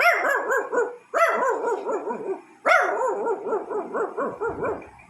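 A man imitating a dog with his own voice: three long, wavering howl-like whines, each starting high and sliding down.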